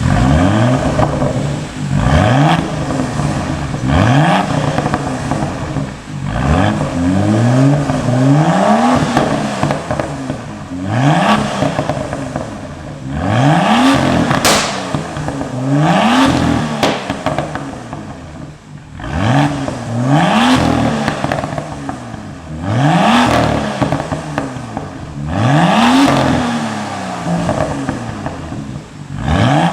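BMW M2 F87's turbocharged straight-six, fitted with the M Performance exhaust, revved hard about a dozen times, each rev rising fast and falling back. The exhaust crackles and pops as the revs drop.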